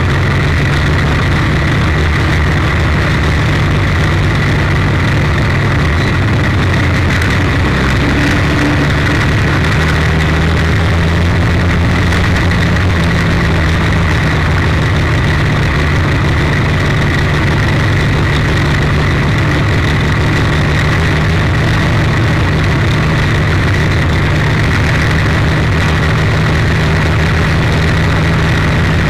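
300 cubic-inch straight-six engine of a 1932 Ford Super Modified race car idling steadily at low revs. A steady high whine runs over it.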